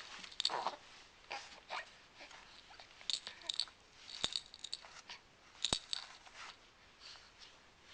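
Young baby sucking on his hand: short, wet sucking and smacking sounds, with two sharp clicks about four and six seconds in.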